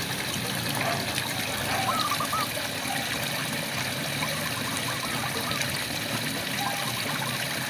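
Steady rain falling, with frogs calling over it in short runs of quick chirps, one run of about four chirps around two seconds in and another near the end.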